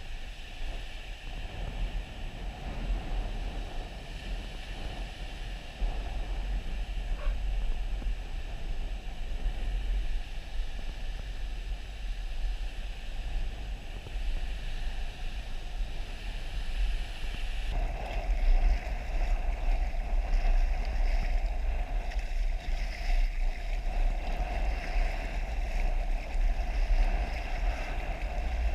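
Wind buffeting the microphone over the wash of sea water around a kayak out on the bay. It gets a little louder and brighter about two-thirds of the way through.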